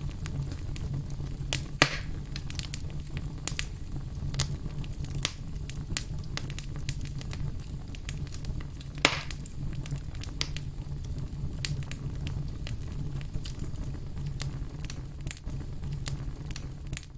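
Burning firewood crackling, with frequent sharp snaps and pops over a steady low rumble. Two louder pops stand out, about two seconds in and about nine seconds in.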